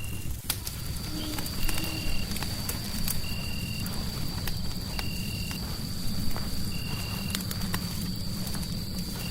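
Fireplace crackling, sharp pops and snaps over a dense low rumble. A short high chirp repeats about every second and a half, and a thin, steady high tone comes in about half a second in.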